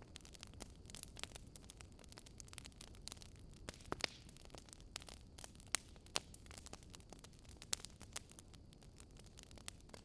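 Wood fire crackling: a low steady rumble with irregular sharp pops and snaps, a few louder cracks about four, six and eight seconds in.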